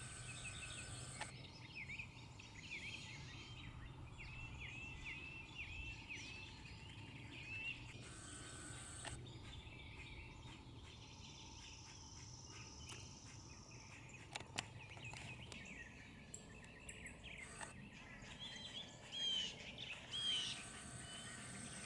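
Birds chirping and singing in the background, many short repeated calls, with a high steady note held for a few seconds in the middle and a few faint clicks.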